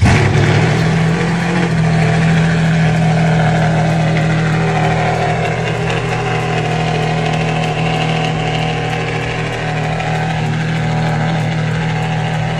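Ferrari Enzo's V12 firing up through a loud aftermarket exhaust, catching suddenly right at the start and settling straight into a steady idle that eases off slightly as it goes.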